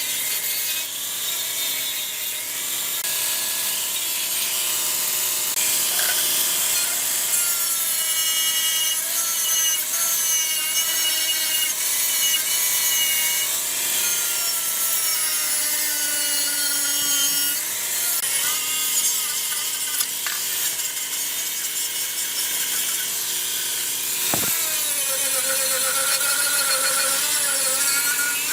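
A tool working on a metal carburetor part, a steady rasping with a wavering whine that shifts in pitch, and one sharp knock near the end.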